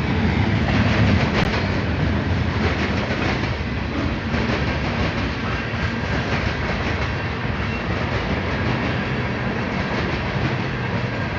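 Mixed freight train rolling past at close range, its cars' wheels clattering steadily over the rail joints with continuous wheel-on-rail rumble.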